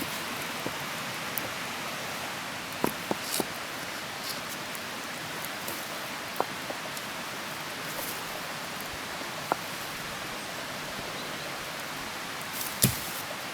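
Steady hiss with scattered sharp ticks and pops at irregular intervals, one louder pop near the end.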